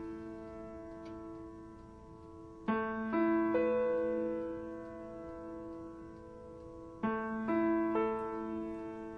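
Slow, soft piano background music: notes struck in small groups about every four seconds, each group left to ring and fade.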